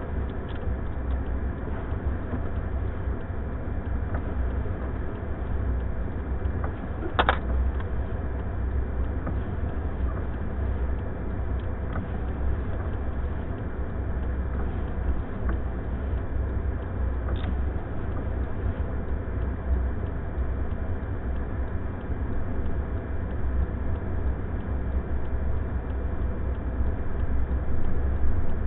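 Steady low rumble of a running vehicle in a blizzard, with an even hiss over it. A sharp click about seven seconds in and another about ten seconds later.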